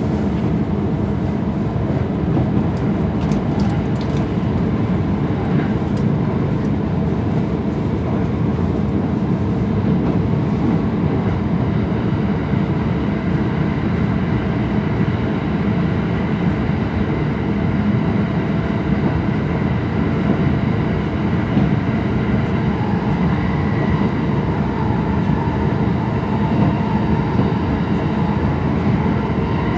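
Inside a JR East E231 series double-deck Green car running at speed: a steady rumble of the wheels on the rails. A faint tone rises slightly over the last several seconds.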